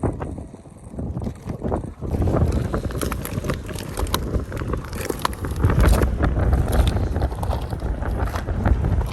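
Wind buffeting the microphone in uneven gusts, with scattered crackles and clicks over it.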